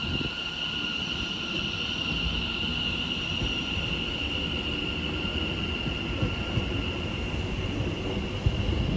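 A train at a station platform: a low rumble with a steady high-pitched whine held throughout.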